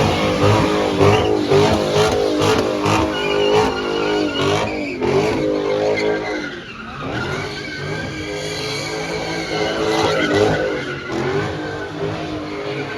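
Car engine revving hard, its pitch swinging up and down again and again, while the tyres squeal and skid.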